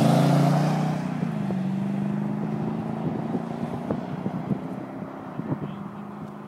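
A sports car engine at high revs for about a second, then dropping to a steadier, lower drone that fades away. Scattered pops and crackles are heard through the fade.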